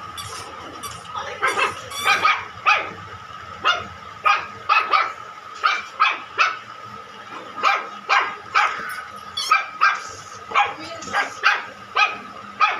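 Small shih tzu dog barking repeatedly in short, sharp yips, about two a second.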